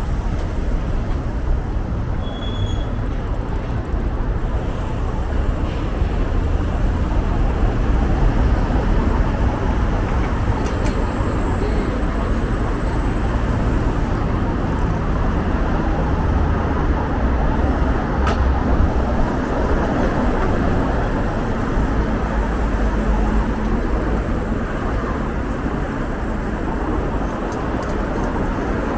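Steady city road traffic noise: a continuous low rumble of passing vehicles.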